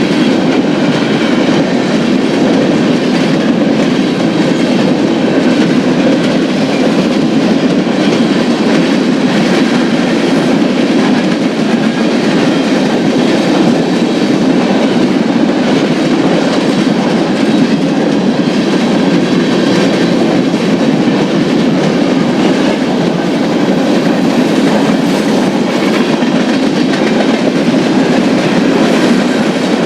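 Union Pacific manifest freight train rolling past, its cars making a steady rumble and clatter of wheels on the rails.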